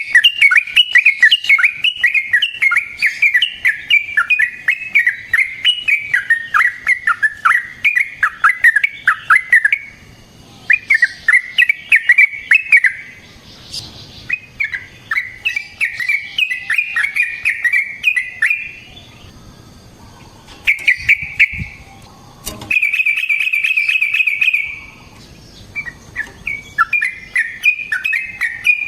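Yellow-vented bulbul (trucukan) singing long, fast, bubbly runs of whistled notes, in several bursts separated by short pauses, with one steady rapid trill about two-thirds of the way through.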